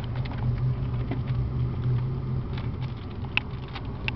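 Low steady hum of a car engine idling in the cabin, weakening about halfway through. Over it come scattered crinkles and sharp clicks as a plastic toy blind-bag pack is torn open.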